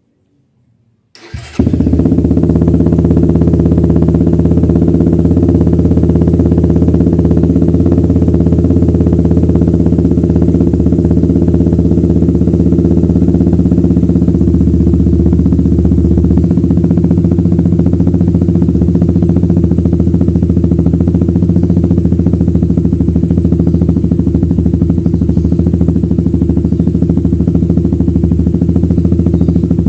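Suzuki Satria FU motorcycle's 150 cc single-cylinder four-stroke engine, fitted with a Lone Rider racing exhaust, starting about a second in and then idling steadily and loudly through the open muffler.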